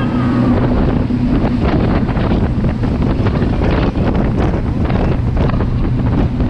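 Strong wind buffeting the microphone over the steady running of a jet boat's twin Chevy big-block V8 engines as the boat runs fast.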